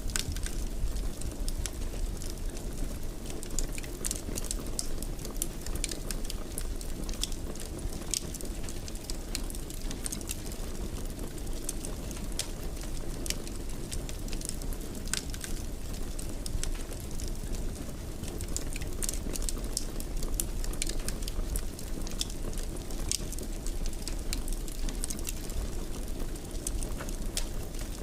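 Wood fire burning in a fireplace, crackling with frequent small, irregular pops over a steady low rumble of the flames.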